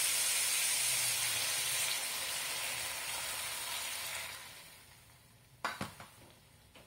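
Vegetables and oil sizzling in a hot aluminium wok as liquid is poured in from an enamel mug; the sizzle dies away about four and a half seconds in. Two short knocks follow near the end.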